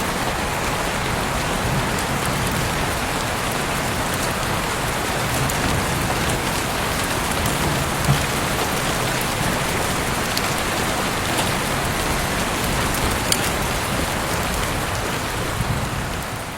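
Heavy rain falling steadily in a dense hiss, with a few sharper drop hits standing out. It begins to fade out near the end.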